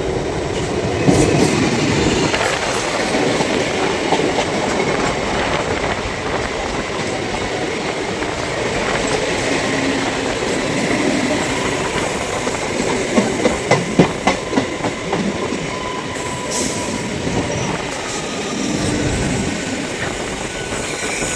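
Electric multiple unit (EMU) local train running past on steel rails, a steady rumble with faint wheel squeal and a quick run of clacks over rail joints about two-thirds of the way in.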